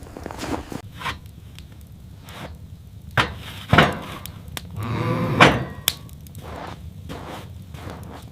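A few knocks and thuds on wood, the two sharpest about three and four seconds in, with a short pitched sound around five seconds in.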